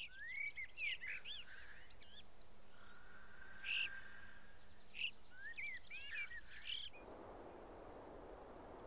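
Birds chirping: small clusters of short, quick up-and-down calls over the first seven seconds. After that only a faint even hiss of outdoor ambience remains, with a trace of chirping.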